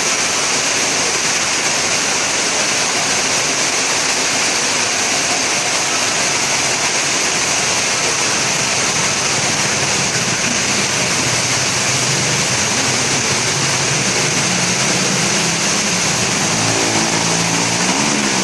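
Heavy rain falling, a steady loud hiss, with a low hum joining in during the second half.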